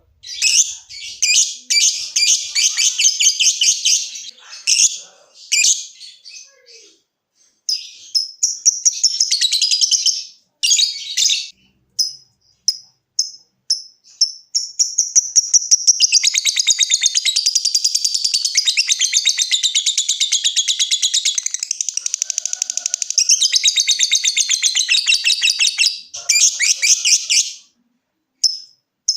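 Lovebird calling: choppy bursts of chattering and separate sharp chips, then from about halfway in a long, fast, unbroken chattering trill of some thirteen seconds (the 'ngekek' that lovebird keepers prize), after which it breaks back into single chips.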